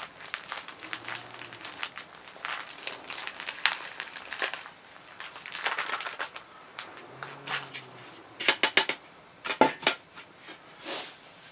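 Crinkling and rustling handling noises, packaging or materials being worked by hand, with a few sharp clicks about 8 to 10 seconds in.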